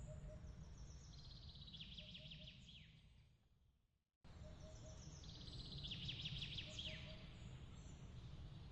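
Faint nighttime ambience track: soft trilled bird-like chirps and short repeated peeping notes over a low steady rumble. It fades out about four seconds in, drops to a moment of dead silence, and then restarts the same chirping pattern, the seam of a looped recording.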